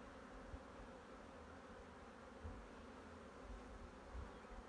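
Faint buzzing of honey bees from an open hive, with a few soft low rumbles.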